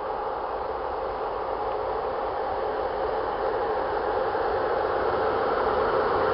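Electric locomotive hauling a freight train as it approaches: a steady running hum with a couple of held tones over rolling noise, growing louder as it draws nearer.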